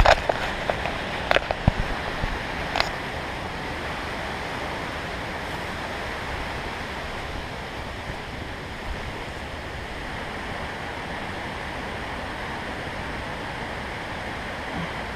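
Steady rush of creek water, with a few sharp knocks and clicks in the first three seconds.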